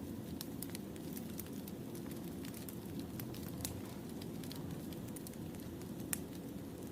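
Firewood burning in a campfire: a steady low rumble with frequent sharp crackles and snaps, and one louder pop near the end.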